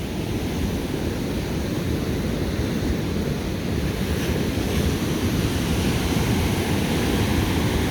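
Pacific Ocean surf washing steadily onto the beach, with wind buffeting the microphone.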